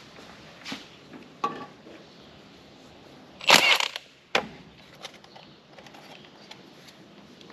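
Knocks and a clatter of tools and metal parts being handled: a few light knocks, a louder half-second clatter about three and a half seconds in, then a single sharp knock and some small ticks.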